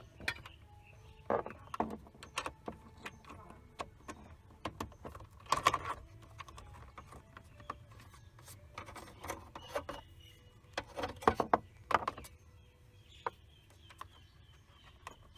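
Scattered clicks, knocks and rattles of plastic dashboard trim and its fixing nuts being handled while the panel is refitted, with louder clusters of knocks about a second and a half in, in the middle, and around eleven to twelve seconds.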